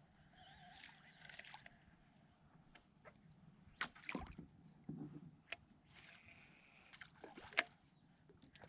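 Light water splashes and sloshing beside a kayak, broken by a few sharp knocks, as a hooked redfish is brought to the boat.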